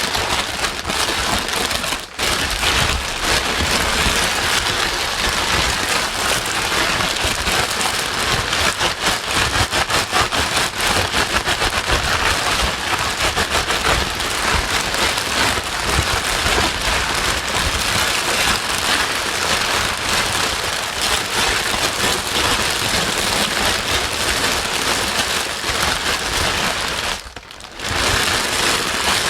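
Continuous white noise for soothing a crying baby: a dense, rain-like hiss at a steady level. It dips out briefly about two seconds in and again near the end.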